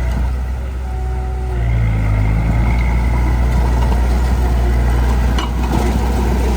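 Heavy construction-machine diesel engine running under load, picking up speed about two seconds in, with a single clank about five and a half seconds in.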